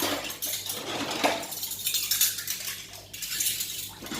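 Plates and cutlery clinking and clattering irregularly as dishes are washed by hand.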